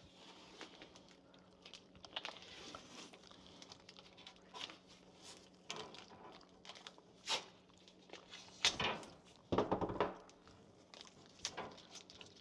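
Painter's tape being pulled off the roll and wrapped around the wire and fish tape hook: scattered crinkling and crackling with a few louder rips near the end.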